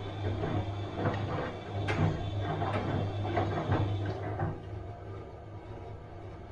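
Bosch washing machine running a wash cycle: a steady motor hum under irregular knocks and clicks from the turning drum and tumbling laundry. About two-thirds of the way through the knocking stops and the sound settles to a quieter hum, as the drum pauses between turns.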